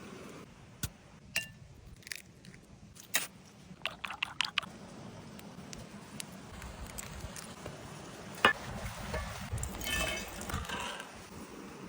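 Cooking utensils and cookware clinking and knocking: scattered sharp taps, one louder knock about eight and a half seconds in, and a run of ringing clinks near the end.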